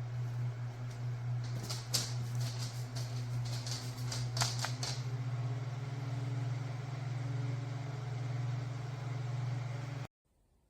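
FrSara handheld folding fan running with a steady low motor hum, with a few handling clicks and knocks in the first half. The sound cuts off abruptly near the end.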